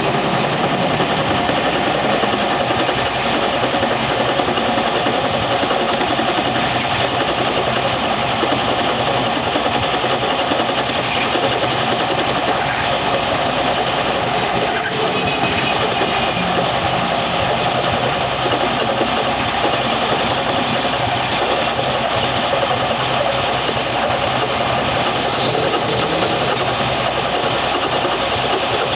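A metalworking machine running steadily for the whole stretch, a dense even noise with no pauses.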